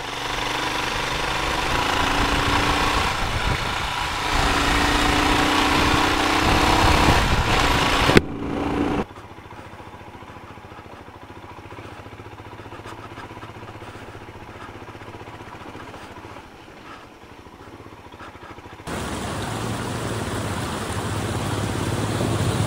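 Royal Enfield Himalayan's single-cylinder engine running on a rough road, loud and wavering in pitch for about eight seconds. It then drops to a much quieter, duller hum for about ten seconds and comes back up loud near the end.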